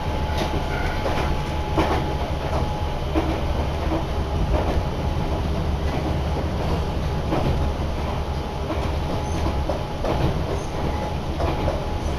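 Passenger train running, heard from inside the car: a steady low rumble of wheels on track, with irregular clicks as the wheels pass over rail joints.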